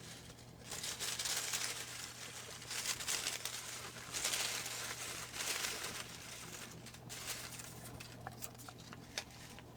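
Paper slips rustling and crinkling as a hand rummages through a hat of folded name slips and unfolds one. The crinkling comes in several waves over the first half, then settles into quieter handling with a few small clicks. A faint steady hum sits underneath.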